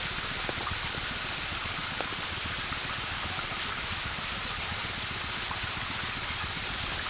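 Steady rush of running water from a mountain stream.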